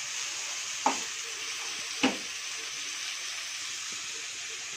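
Brinjal pieces frying in oil in a pan, a steady sizzle, with a steel spatula scraping through the pan twice, about one and two seconds in.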